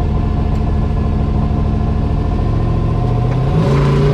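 Drift truck's engine running under steady throttle, then revving up about three and a half seconds in.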